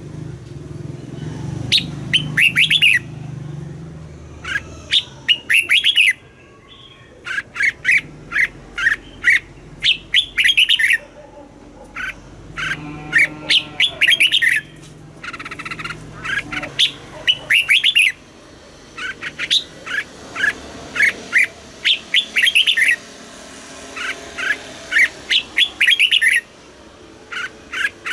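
Red-whiskered bulbul singing: short phrases of quick, bubbling notes, one every second or two with brief pauses between them.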